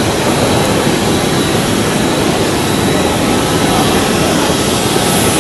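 Boeing 737 airliner's jet engines running loud and steady on the runway, a continuous rushing roar with no let-up.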